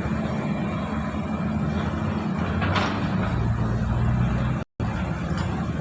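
Boat engine running steadily with a low, even hum over broad noise; the sound cuts out for a moment near the end.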